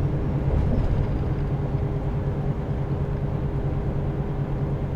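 Semi-truck's diesel engine and road noise heard from inside the cab while cruising: a steady low drone with an even hum running through it.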